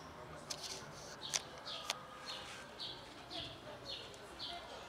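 A small bird chirping over and over, short high chirps about twice a second. A few sharp clicks come in the first two seconds.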